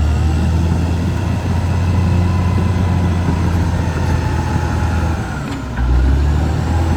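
Caterpillar D6R XL bulldozer's diesel engine running steadily, with a brief dip in power a little over five seconds in before it pulls strongly again.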